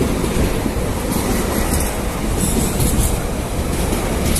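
Train hauled by an Indian Railways WDG4G diesel locomotive (General Electric) running on the rails: a steady, loud rumble and rattle of engine and wheels.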